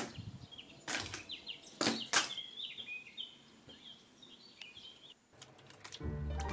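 Small birds chirping in short, quick calls, with a few sharp snaps in the first couple of seconds; music starts near the end.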